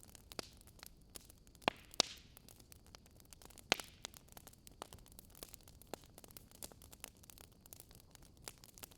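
Wood fire crackling: faint irregular pops and snaps over a low hiss, with a few sharper snaps about two and four seconds in.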